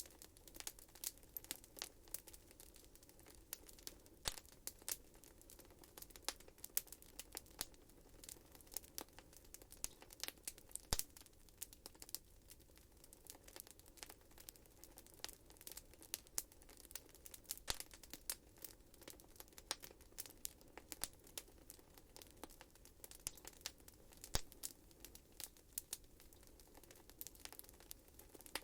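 Wood fire crackling in a fireplace: irregular sharp pops and snaps over a soft steady hiss of burning, with one louder crack about 11 seconds in.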